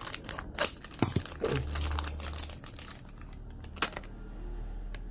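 Plastic popsicle wrapper crinkling and being torn open, with a run of sharp crackles in the first two seconds and one more a little before the end.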